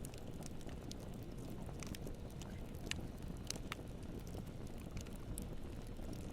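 Campfire burning with a steady low rumble, the wood crackling and popping, with a few sharper snaps about three to four seconds in.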